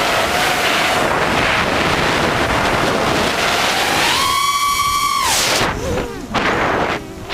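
Heavy wind buffeting on the microphone over a small motor whose pitch wavers, then rises and holds a high, steady whine for about a second before dropping away, with two short dips in level near the end.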